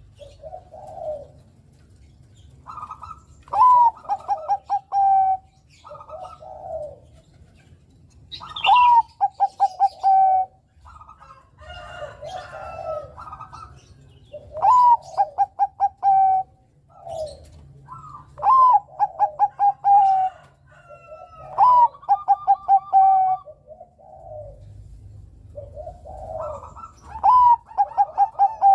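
Zebra dove (perkutut Bangkok) cooing its song, repeating phrases every few seconds. Each phrase is a quick run of short stuttering notes that ends in a held coo.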